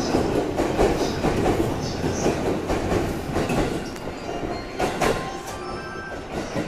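E257-series electric train running past close by, its wheels rumbling and clattering over the rail joints, slowly fading as it goes. A sharp click comes about five seconds in, and faint whining tones near the end.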